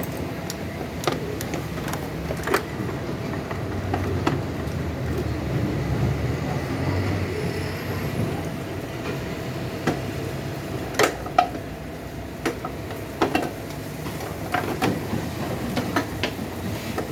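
Irregular sharp metallic clicks and knocks of tools being handled while a motorcycle steering cone bearing is worked on, over a steady low rumble; the loudest knocks come close together past the middle.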